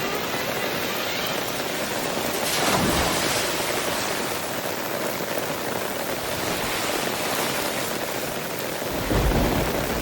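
Heavy rain falling steadily. Two short, louder low rumbles come through it, about three seconds in and near the end.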